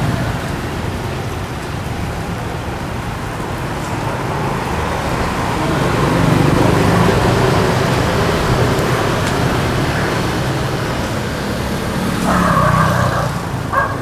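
Road traffic noise, a steady wash of passing vehicles that swells in the middle, with a short pitched sound near the end.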